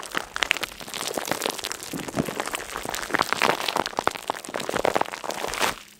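Dense crackling and crinkling made of many small rapid clicks, stopping abruptly near the end.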